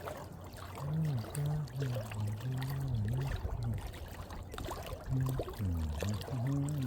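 A low-pitched man's voice talking quietly and indistinctly, muffled, over a faint steady hiss.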